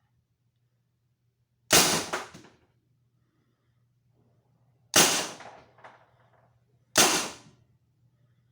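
Three shots from a Tippmann paintball marker converted with a Blizzard mag-fed kit, each a sharp pop with a short decaying tail, the second about three seconds after the first and the third two seconds after that.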